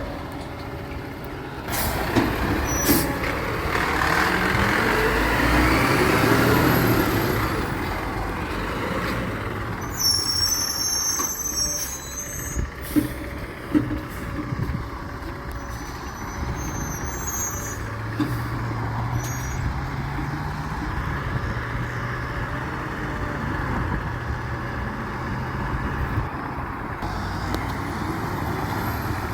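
Garbage truck engine running steadily, with a long hiss of air a few seconds in, a couple of sharp metallic knocks, and high brake squeals near the middle.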